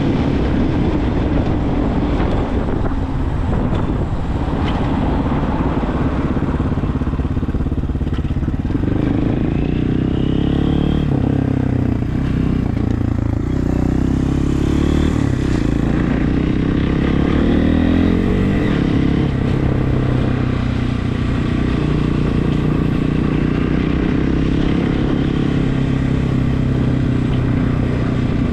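Regulmoto TE enduro motorcycle engine running while riding, its pitch rising and falling with throttle and gear changes, most noticeably in the middle.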